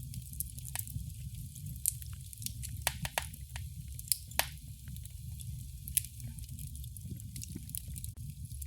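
Wood fire crackling in a fireplace: irregular sharp pops and snaps over a steady low rumble of the burning fire, with a few louder snaps scattered through.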